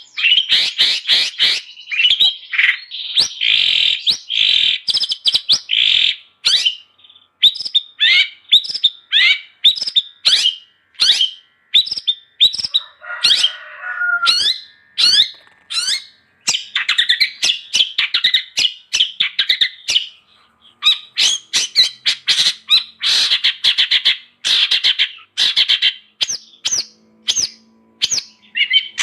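Long-tailed shrike (cendet) singing in a fast, loud run of sharp chattering notes, with a harsher, scratchy stretch about halfway through.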